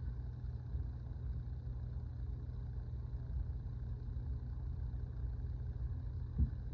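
Steady low rumble like an engine idling, with one short thump about six seconds in.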